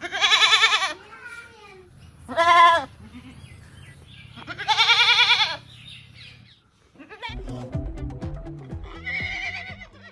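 A goat bleating three times, each call wavering, the last the longest. Background music with a beat comes in about seven seconds in.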